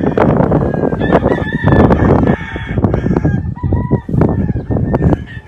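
Gamefowl rooster crowing, with drawn-out crows about a second in and again near the end, over a constant rustle with many short clicks.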